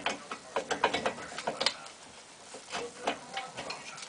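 Irregular metallic clicks and clinks of hand tools working on a car's brake assembly during reassembly.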